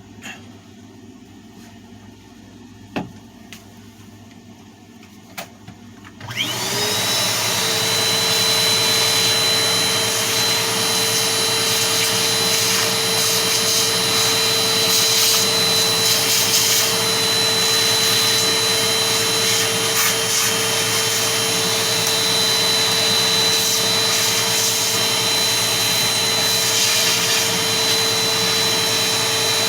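A few light knocks, then about six seconds in a vacuum cleaner switches on, whining up to speed and running steadily while it cleans dust off a table fan's motor.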